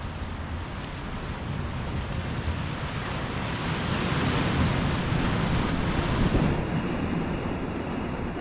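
Ocean surf: a wave swells and breaks about halfway through, its rush peaking and then cutting back sharply as it washes in, with the low steady roll of the sea beneath.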